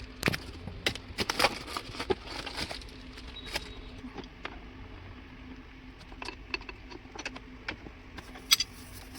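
Scattered small metallic clicks and taps of hand tools and parts being handled, over a faint steady hum. The clicks come thickly at first, thin out in the middle, and a couple of sharper ones come near the end.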